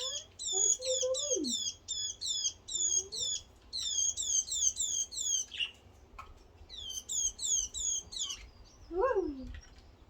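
A small bird chirping in quick runs of high, down-slurred chirps, several a second, breaking off and starting again. A lower rising-and-falling squeal comes in the first second and again near the end.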